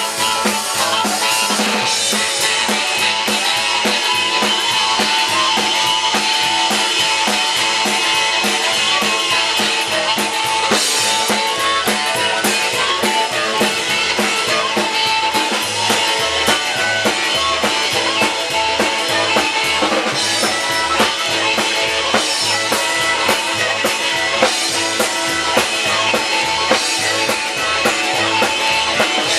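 Live rock and roll band playing, with a drum kit keeping a steady beat of bass drum, snare and rimshots.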